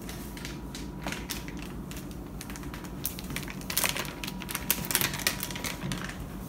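Hands rummaging through packaging in search of cat treats: a quick run of small clicks and crinkles that gets busier in the second half.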